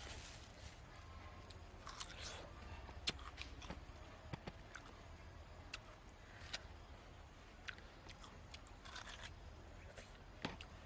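Faint, scattered sharp clicks and light crunches, with a few short rustles, about a second in and again near the end.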